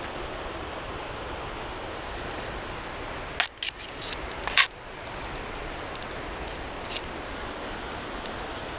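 Steady rushing of river water, with a short cluster of sharp clicks and knocks about three and a half to five seconds in, during which the rushing briefly drops away.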